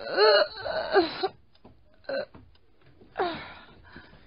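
A woman's wordless vocal sounds: short moans with bending pitch and breathy gasps, in several separate bursts.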